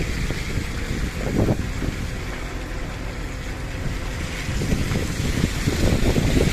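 Floodwater rushing past, a continuous churning rush with heavier surges about a second in and again near the end.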